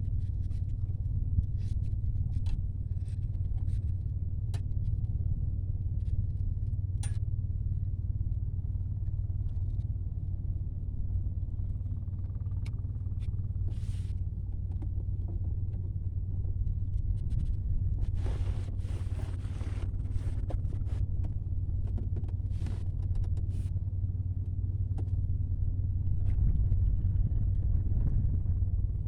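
Strong wind buffeting the microphone: a steady low rumble, with scattered small clicks and brief rustles from handling.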